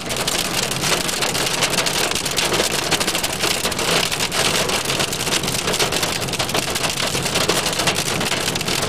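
Heavy rain pelting a car's roof and windshield, heard inside the cabin as a dense, steady patter over the car's low hum.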